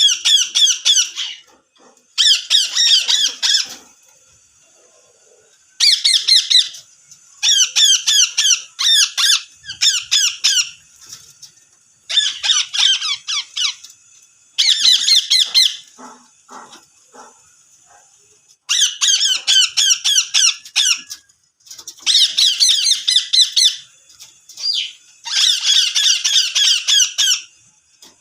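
Ringneck parakeet screeching in repeated bouts of rapid, shrill notes, each bout lasting a second or two, with short pauses between them.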